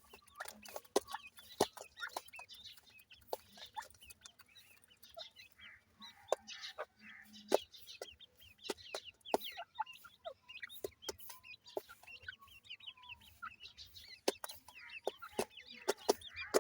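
Grey francolin chicks cheeping, with many short, high calls coming in quick succession, and frequent sharp taps mixed in.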